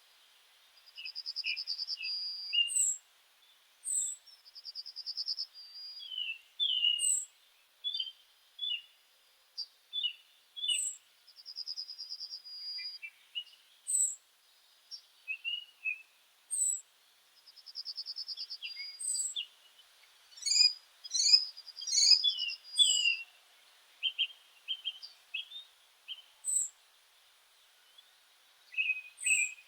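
Several songbirds calling and singing: short high chirps repeated every second or two, interleaved with buzzy trills lasting a second or so, busiest about two-thirds of the way through.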